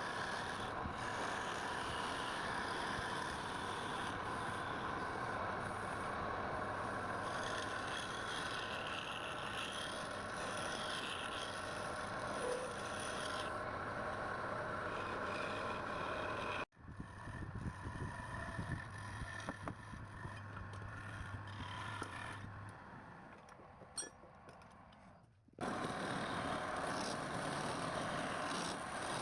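Wood lathe running with a steady motor hum while a turning tool scrapes the spinning wood. The sound cuts off abruptly about halfway, returns quieter and fades away, then comes back suddenly near the end.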